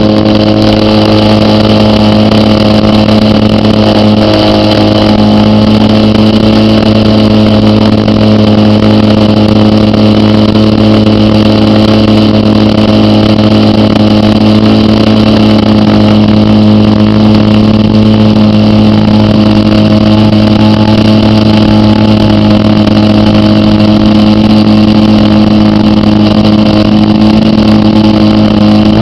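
.46-size glow engine of an RC model aerobatic plane running at a steady high speed, holding one constant pitch throughout.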